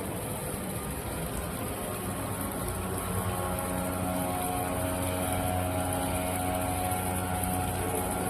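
A motor or engine running steadily, a mechanical hum that grows a little stronger about three seconds in.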